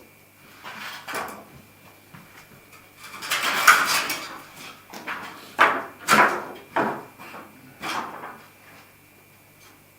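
Hand saw cutting into timber in short, irregular rasping strokes: a couple about a second in, a longer run of sawing around the middle, then several single strokes before it stops.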